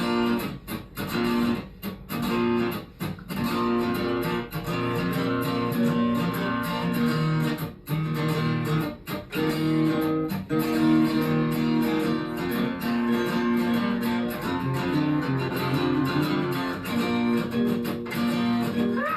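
Guitar strumming chords in a driving rhythm, chopped by short stops in the first few seconds and then played steadily on.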